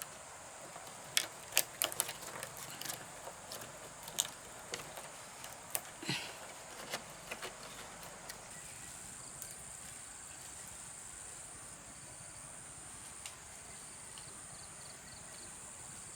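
Scattered light clicks and knocks through the first half, then a steady high-pitched insect buzz that sets in about halfway and carries on to the end.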